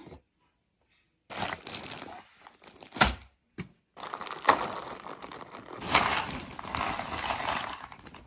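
Crinkling and rustling of a jigsaw puzzle's packaging being opened and handled, with a few sharp knocks, broken twice by abrupt cuts to silence.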